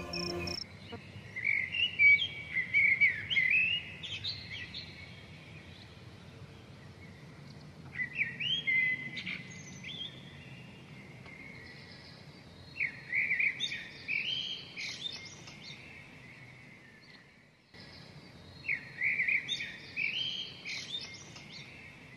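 Birdsong: four bouts of rapid, high chirps a few seconds apart.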